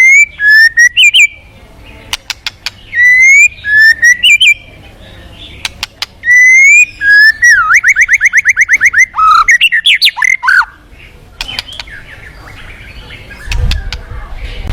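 White-rumped shama singing loud, clear rising whistles mixed with sharp clicks, with a fast trill of about nine notes a second around the middle. A low rumble comes in near the end.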